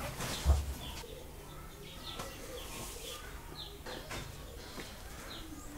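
Birds chirping in the background: short falling chirps repeated every half second or so. A dull low thump comes about half a second in.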